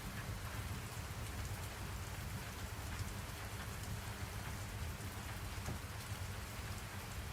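Steady rain falling on a surface, a constant hiss with faint patter of drops and a low rumble underneath.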